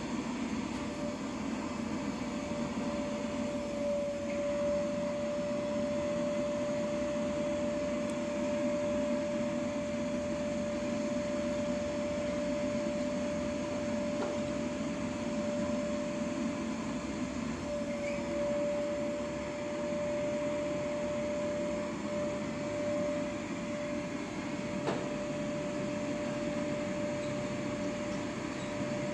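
A steady machine hum with a constant whining tone running through it, unchanging throughout.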